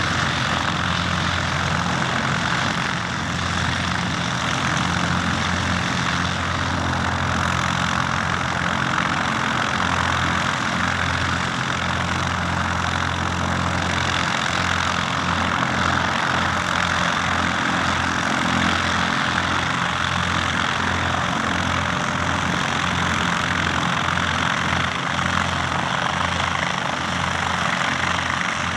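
Cessna 152's four-cylinder Lycoming O-235 engine and propeller running at a steady speed.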